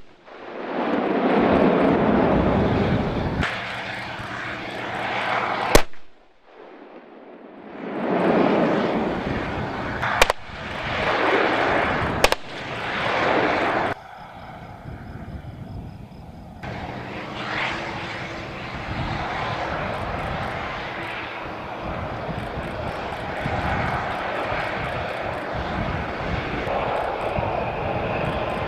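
Military jet aircraft engines heard in a series of short edited clips: several passes that swell and fade over a few seconds each, then a steadier engine drone.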